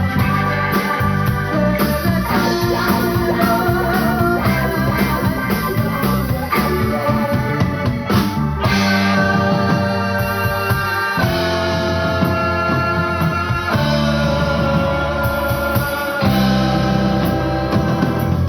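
Rock band playing live, with electric guitar and drum kit over a steady low bass line and long held notes.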